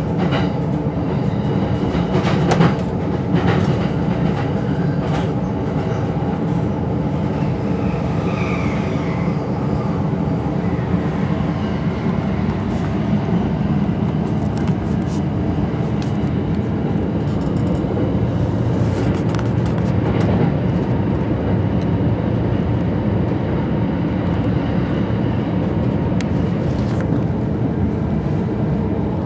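Inside a JR East E231-series electric commuter train running between stations: steady rolling and motor noise with a hum of held tones, and a few sharp clicks from the wheels.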